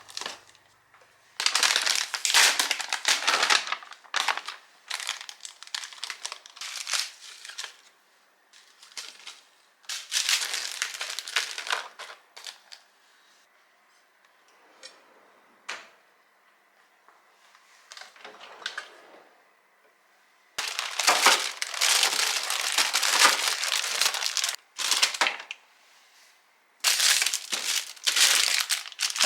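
Plastic food packaging crinkling and rustling as it is handled, in several bursts of a few seconds each with quieter stretches between.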